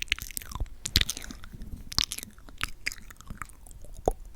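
Close-miked wet mouth sounds: lips smacking and clicking sticky with lip gloss, a string of short irregular clicks.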